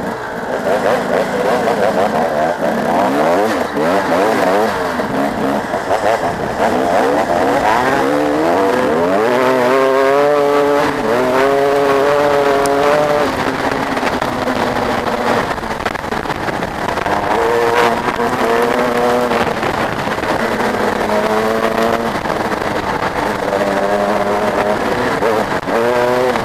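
Several motocross bikes' engines revving hard, their pitch climbing, dropping back and climbing again as they shift through the gears, with several engines overlapping.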